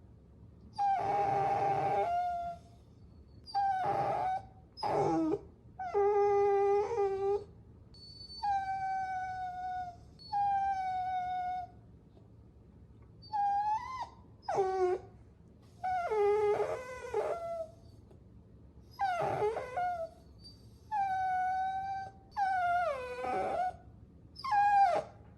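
Puppies whining: a string of high-pitched whines, some held for about a second and dropping in pitch at the end, others short and sliding, with brief pauses between them.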